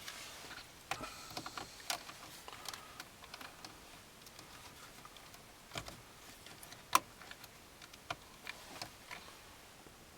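Light, irregular plastic clicks of buttons being pressed on an aftermarket FM/MP3 car stereo, with one sharper click about seven seconds in.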